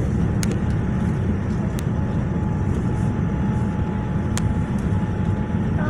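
Steady roar of engine and airflow noise inside the cabin of a Boeing 787 descending on approach, with a faint steady whine coming in about two seconds in.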